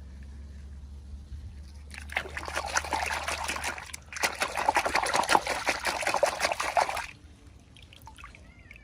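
Liquid being poured in two pours, the first about two seconds long and the second about three, stopping abruptly after the second.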